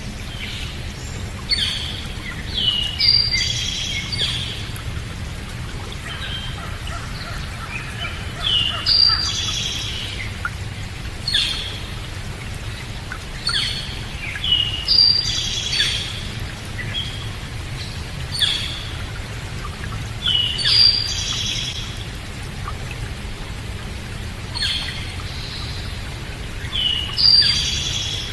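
Songbirds singing short chirping phrases, one every two to three seconds, over a steady low rushing background.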